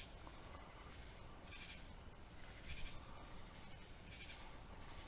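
Insects chirping outdoors in short, high-pitched buzzy pulses, one about every second or so, over a faint steady background.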